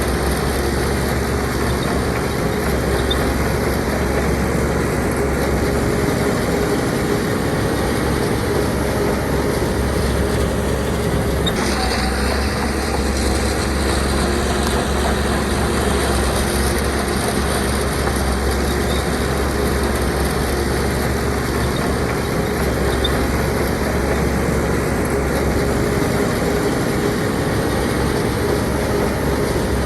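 Heavy diesel earthmoving machinery running steadily under work, its sound shifting once about twelve seconds in.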